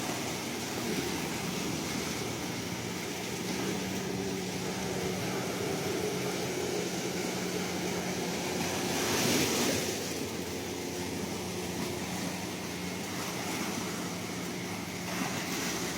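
Ocean waves washing steadily on the shore, with one bigger wave surging up and breaking about nine seconds in.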